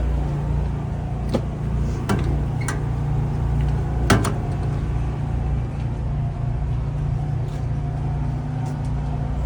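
Steady low rumble of an idling engine, with a few short sharp knocks, the loudest about four seconds in.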